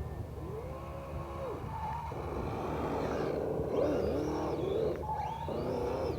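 Small RC car motor whining, its pitch rising, holding and dropping several times as the throttle is worked, over a steady low rumble.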